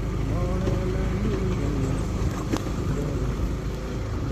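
Steady engine and road noise from a moving vehicle, with a single sharp click about two and a half seconds in.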